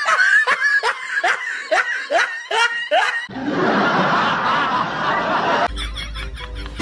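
A person snickering in a run of short laughs, each falling in pitch, about three a second. About three seconds in, the laughing gives way to a couple of seconds of rushing noise.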